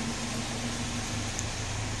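2003 Saturn Ion's 2.2L four-cylinder engine idling steadily.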